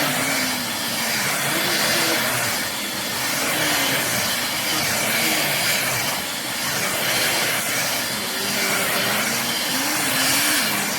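Corded stick vacuum cleaner running steadily while vacuuming dirt off a rug, with a loud, even motor hiss.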